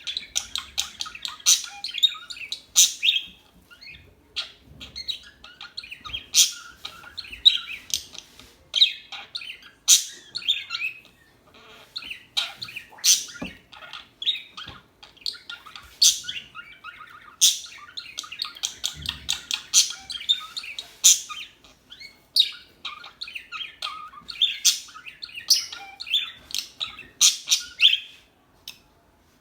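Pet budgerigars chattering, a dense run of short, sharp chirps and warbles with brief pauses; they fall quiet for a moment near the end.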